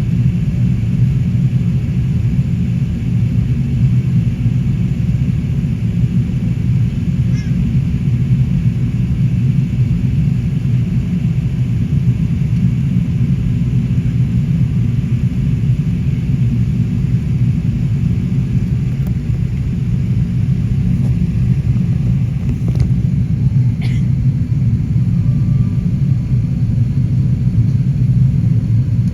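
Qantas Airbus A380's engines and airflow making a steady, loud low rumble that neither rises nor falls.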